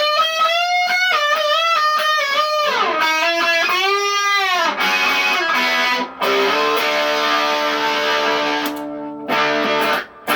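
Fender Stratocaster played through a RAT distortion pedal: a lead line of single notes with string bends and vibrato, then held chords from about five seconds in, broken off briefly twice.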